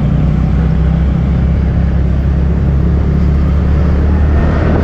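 Motorcycle engine running steadily at a low, even speed, heard from the rider's seat.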